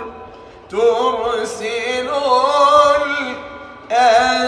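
A solo male voice chants an Arabic ibtihal (religious supplication) unaccompanied, in long melismatic phrases with vibrato. After a short breath at the start, one drawn-out phrase is sung, and a second phrase begins near the end.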